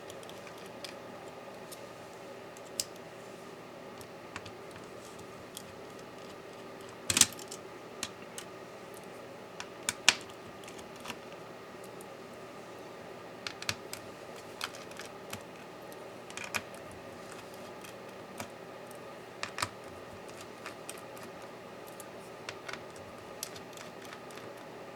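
Scattered small clicks and light taps of tools and small parts being handled during a laptop teardown, with two sharper knocks about seven and ten seconds in, over a steady faint hum.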